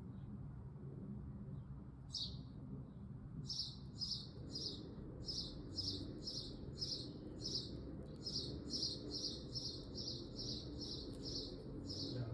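African grey parrot chirping: a single short high chirp, then from about three seconds in a steady run of short, evenly spaced high chirps, about two or three a second.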